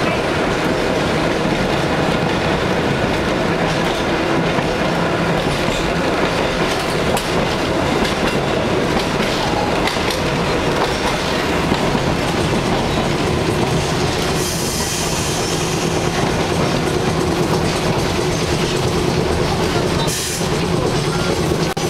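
Steady running noise of a railway car in motion, heard from on board: wheels rumbling and clattering over the track, with a little wheel squeal.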